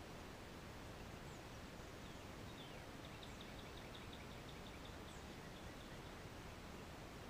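A songbird sings a faint, even trill of quick repeated high notes over steady outdoor background hiss. The trill begins about a third of the way in and lasts about three seconds. A few thin, high chirps are scattered around it.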